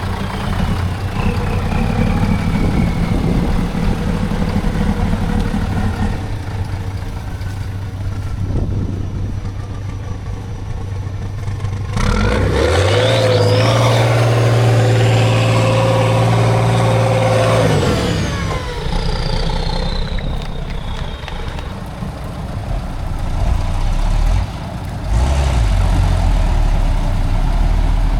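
Heavy off-road trial truck engine running, then revving up hard about twelve seconds in, holding high revs for about six seconds with a high whine rising and falling along with it, before dropping back to a lower running note.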